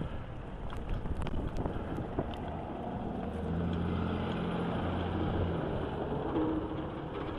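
Wind noise on the microphone and road rush during a bicycle ride through snow, with a low, steady motor-vehicle engine hum that comes in about three seconds in and fades after about five and a half seconds.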